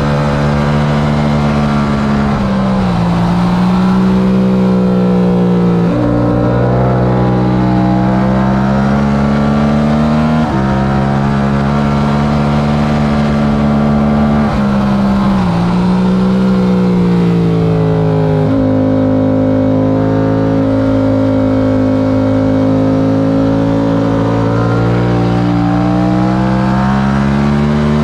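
Yamaha R7's 689 cc parallel-twin engine at racing revs, heard from on board, its pitch climbing and falling as the bike is ridden hard, with sudden pitch steps about every four seconds at gear changes.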